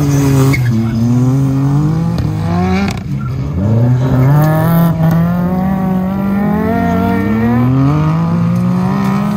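Suzuki Jimny trial car's engine revving hard under load on a dirt climb, its pitch rising steadily, falling back and rising again several times.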